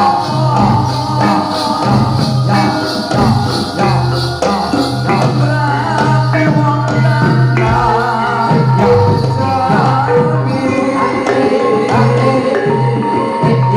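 Live Javanese jathilan accompaniment music: a gamelan-style ensemble playing with steady percussion and a wavering sung vocal line.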